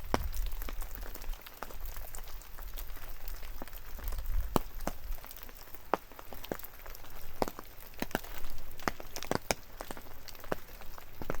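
Rain dripping: large, scattered drops landing at irregular intervals, each a sharp tap, over a faint steady rain hiss. A low wind rumble rises and falls now and then.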